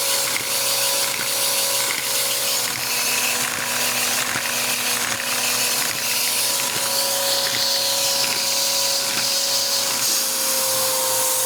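Three-cylinder cammed Lego vacuum engine running on suction: a steady whine with a regular clicking from the engine's moving plastic parts.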